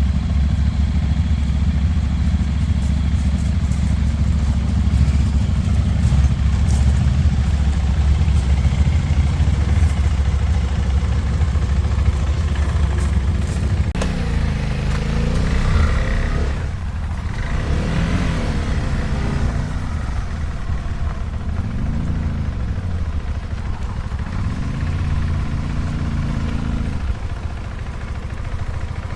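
Motorcycle engine running steadily at idle. Partway through there is a click, and after it the engine pitch rises and falls slowly a few times, like light revs.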